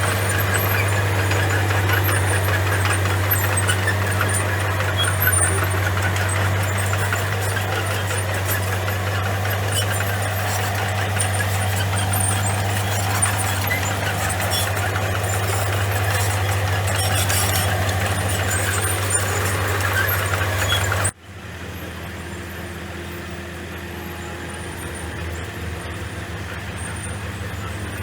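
Komatsu bulldozer's diesel engine running steadily under load, a deep steady hum with busy mechanical noise above it. About three-quarters of the way through, the sound cuts off abruptly and goes on as a quieter, steadier engine hum.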